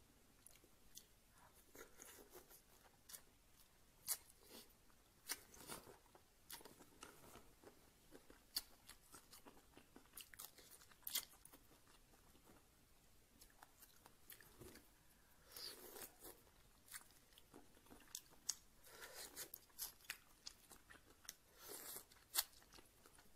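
Quiet crunching, chewing and small clicks of someone peeling shellfish by hand and eating it. The sounds come in short, irregular bursts.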